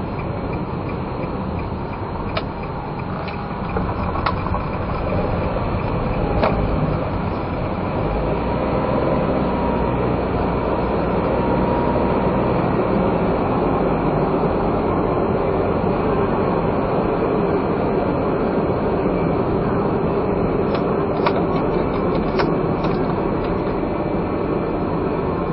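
Non-turbo kei car's engine and road noise heard from inside the cabin while driving, a steady running sound that gets louder a few seconds in, with a few faint clicks.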